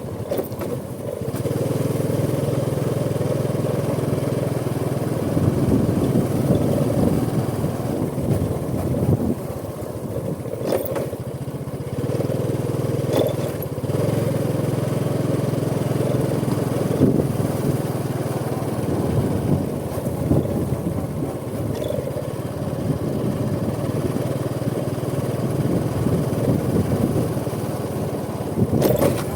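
Honda Supra X 125 motorcycle's single-cylinder four-stroke engine running under way, its note changing several times as the rider works the throttle and gears, with a few short knocks.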